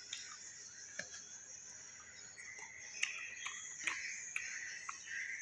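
A person chewing a mouthful of raw unripe fruit such as green mango, with scattered crunches and wet mouth clicks, several in a few seconds.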